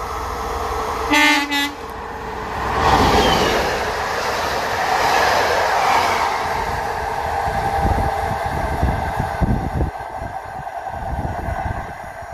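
Locomotive-hauled passenger train passing through the station. It opens with a short horn blast of about half a second, about a second in. Then comes the loud rush of the locomotive and coaches going by, with the wheels clattering over the rail joints as the rear coaches pass and the sound fades.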